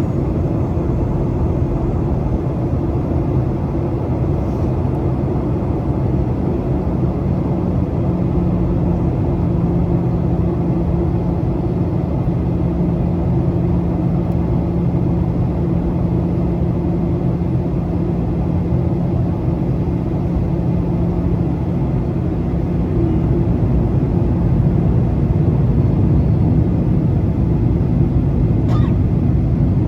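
Steady rumble of engine and airflow noise inside a Boeing 737's passenger cabin. A low steady hum comes in about seven seconds in and fades after about twenty-five seconds, and the rumble grows slightly louder near the end.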